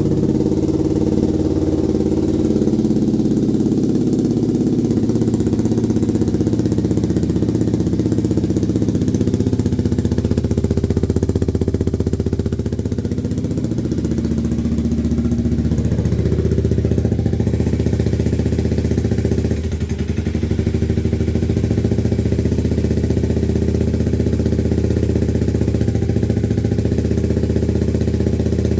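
Motorcycle engine idling steadily after a cold start, with a brief dip in loudness about twenty seconds in.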